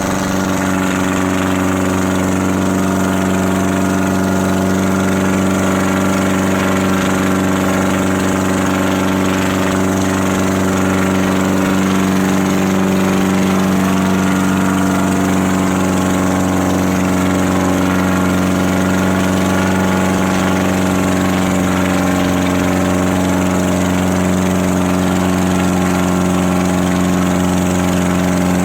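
Farmtrac 6055 tractor's diesel engine running steadily at a constant speed.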